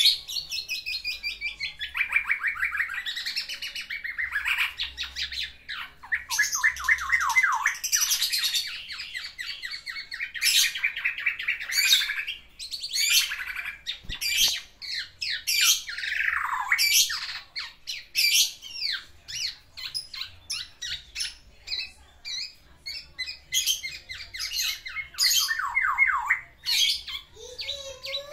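Male black-naped oriole (kepodang) singing a long, varied run of rapid chattering trills and harsh notes, many sweeping downward, with only brief pauses. It is courtship singing: the bird is bringing out its learned song material (isian) to woo a female.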